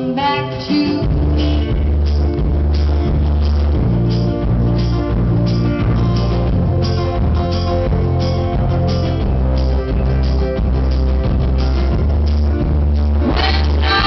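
Live band music recorded from the audience, with a boomy, overloaded low end: heavy bass and a steady beat dominate an instrumental stretch. Female singing comes back in near the end.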